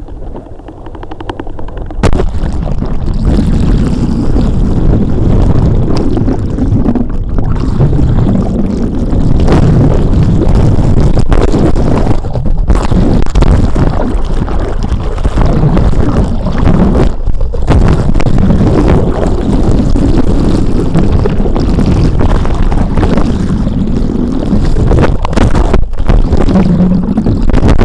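Strong wind buffeting the microphone: a loud, ragged low rumble that cuts in abruptly about two seconds in and keeps surging.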